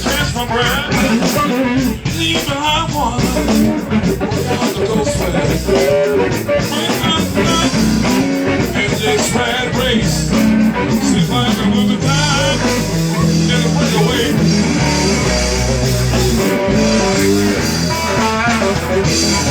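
A live rock band playing an instrumental stretch, with electric guitar lines over bass and drums.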